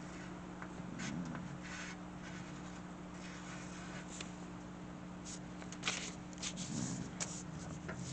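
A drawing tool scratching on paper in short, irregular strokes, with a busier run of strokes near the end, over a steady low hum.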